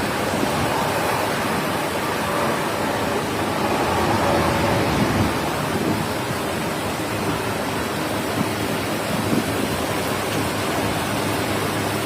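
Steady rushing noise of a storm: heavy rain and strong wind.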